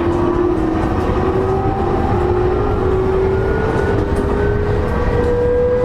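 E231-0 series EMU heard from inside a motor car while accelerating: the traction motor and VVVF inverter whine climbs steadily in pitch over loud wheel and rail rumble.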